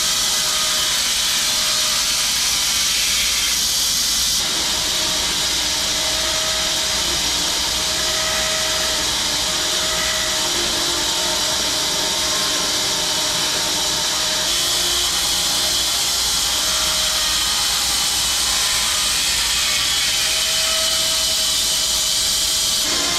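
Home-built 6 ft wide bandsaw mill running through a log: a steady, loud sawing noise strongest in the high range, with the tone changing abruptly a few times.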